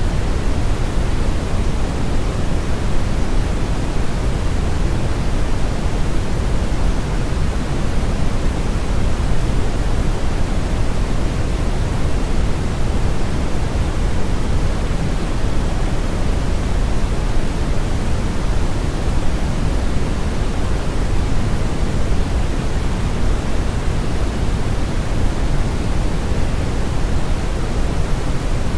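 Steady brown noise: an even, unchanging hiss-like rumble weighted heavily toward the low end, with the highs rolled off.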